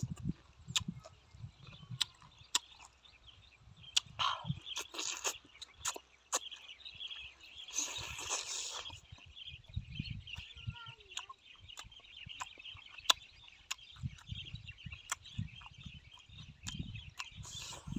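Close-up eating sounds of a man eating a seafood salad: chewing, wet lip-smacking clicks and a few sharp breaths, with a steady high-pitched background chirr.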